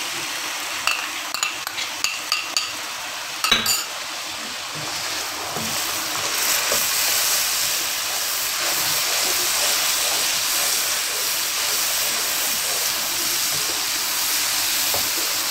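Onion-tomato masala with yogurt just added frying in hot oil in a wok, sizzling steadily while a wooden spoon stirs it. A few clicks and knocks of the spoon come in the first few seconds, and the sizzle grows louder about six seconds in.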